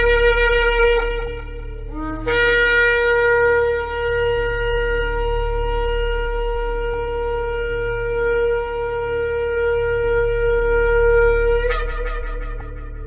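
Shofar (ram's horn) blasts: a short blast, a brief low note about two seconds in, then one long held note of about nine seconds that breaks upward and fades near the end. A steady low hum sits underneath.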